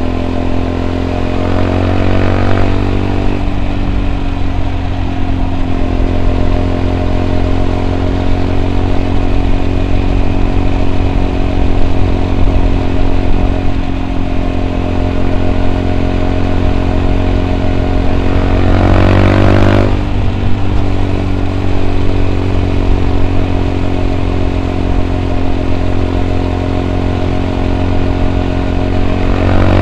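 2014 Yamaha WR 125 X's single-cylinder four-stroke engine running through an Arrow exhaust with a dB killer, riding along. The revs climb and then fall sharply about two seconds in, hold fairly steady for a long stretch, climb and drop again about twenty seconds in, and start rising once more near the end.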